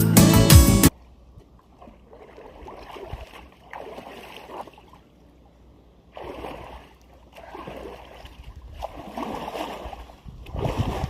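A song ends about a second in; then water splashing in repeated surges, each lasting about half a second to a second and coming every second or two.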